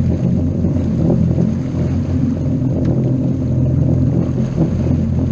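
Motorboat engine running steadily under way: a low, even drone.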